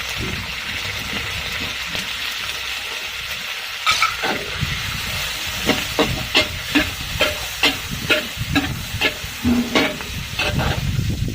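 Shrimp and squid frying with garlic in a hot wok, a steady sizzle. From about four seconds in, a metal spatula strikes and scrapes the wok about twice a second as the food is stirred.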